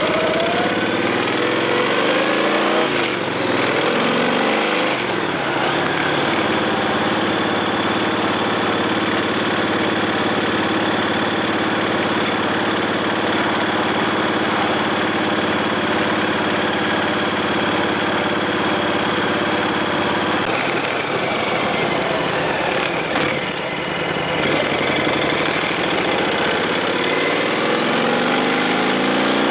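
Motorcycle engine running. It revs up and down over the first few seconds, then runs at a steady pitch, with another change in pitch a little after twenty seconds and a rise near the end.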